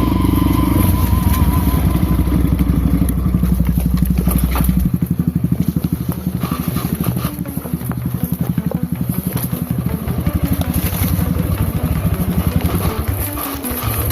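Off-road motorcycle engine running with a steady pulse of firing strokes, louder and heavier for the first five seconds and then easing off.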